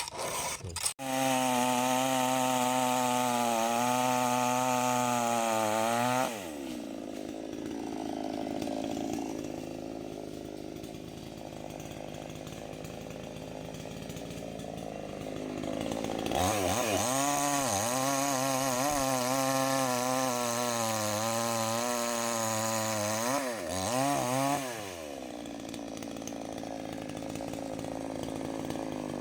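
Two-stroke chainsaw run at full throttle, dropping back to a low idle about six seconds in, then opened up again for about eight seconds from around sixteen seconds in before easing back down.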